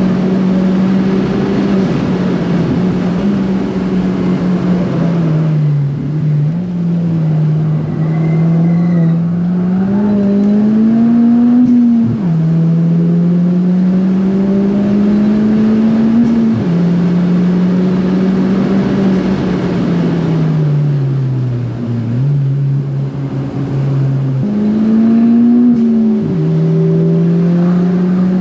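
Tuned big-turbo Ford Fiesta ST engine pulling hard through the gears, heard from inside the car. The pitch climbs and drops abruptly at each upshift, about three times, and sinks slowly in one stretch as the car slows for a corner.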